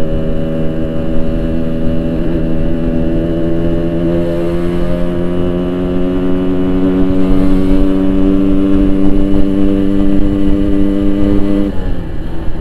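Yamaha RX-King 135cc single-cylinder two-stroke engine running steadily while riding, its pitch creeping slowly up as it holds speed, then falling as the throttle is eased off near the end.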